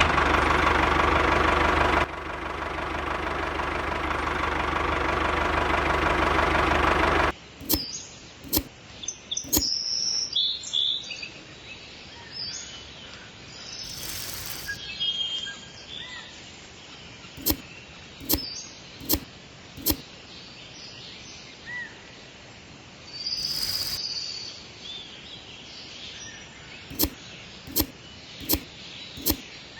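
A loud steady noise that cuts off suddenly about seven seconds in, followed by birds chirping and a scattered series of sharp clicks, with two brief bursts of hiss.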